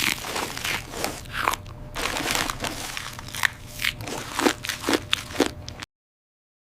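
A run of irregular crunching sounds, several a second, that cuts off abruptly near the end.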